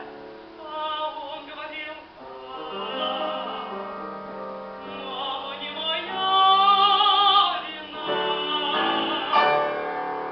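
A young woman singing a Jewish folk song in a trained voice with strong vibrato over instrumental accompaniment. The phrases swell to long, loud held notes about six seconds in and again near the end.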